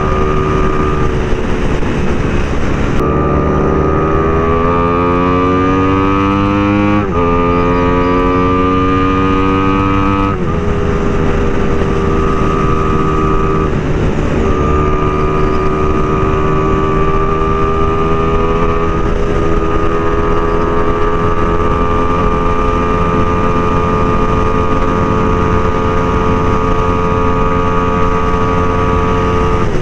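Motorcycle engine under way, running steadily, then climbing in pitch from about three seconds in, with two gear changes at about seven and ten seconds, before settling into a steady cruise.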